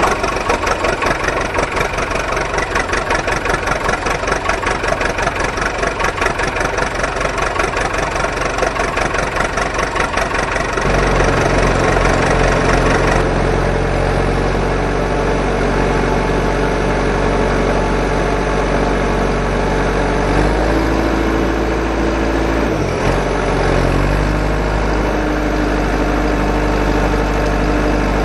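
An engine running, with a fast, regular chugging pulse for the first ten seconds or so, then settling into a steadier running sound. Its pitch shifts briefly a little after twenty seconds in.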